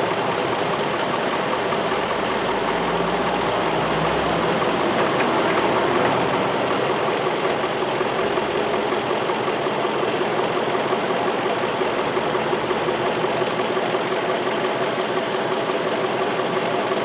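2003 Infiniti M45's 4.5-litre V8 idling steadily, an engine with a random misfire code (P0300) that was found to have no spark on cylinders 5 and 7.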